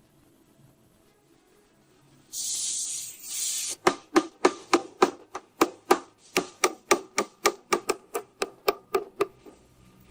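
Two short hisses, then a steady run of sharp taps or clicks, about four a second, stopping near the end.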